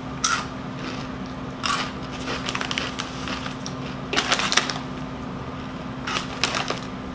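Crunching and chewing of rolled Doritos Dinamita tortilla chips close to the microphone, in irregular bursts of crisp crackles every second or so, over a faint steady hum.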